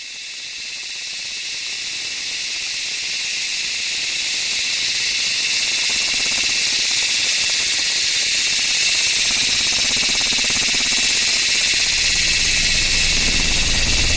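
A steady, even hiss that swells gradually louder, with a low rumble joining near the end.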